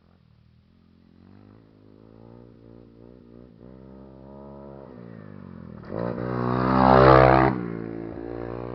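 Motocross dirt bike riding by on the track, its engine note rising and falling as the rider works the throttle. It grows steadily louder, is loudest a little past halfway, then drops off sharply as it goes past.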